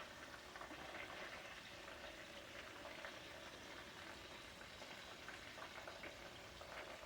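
Faint, steady sizzling and crackling of seasoned chicken pieces browning in hot oil in a frying pan.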